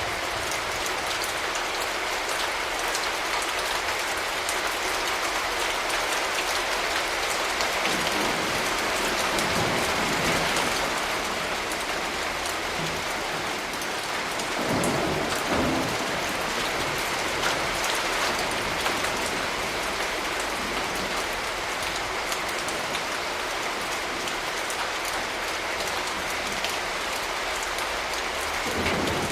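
Steady rain falling, with short low rumbles of distant thunder, the strongest about halfway through.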